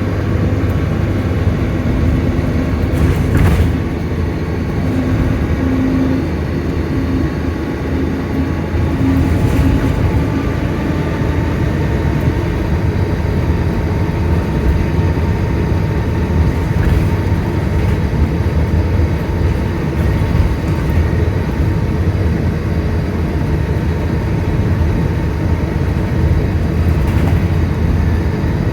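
Volvo B9TL bus's nine-litre six-cylinder diesel running steadily under way, a low engine drone with a steady whine above it and a few faint knocks.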